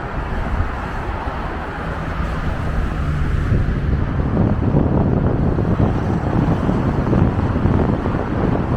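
Diesel bus engine and road noise, getting louder about four seconds in, with wind buffeting the microphone.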